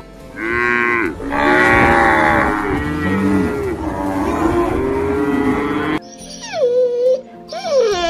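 Several cows mooing in long, overlapping calls for about six seconds. After a sudden cut, a dog whines in high, wavering cries that slide down in pitch.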